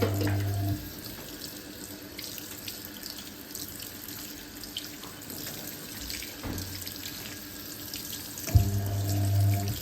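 Hoover 1400 top-loading washing machine filling its tub, water running steadily in from the inlet at the start of a wash. A low hum comes in briefly at the start and again near the end.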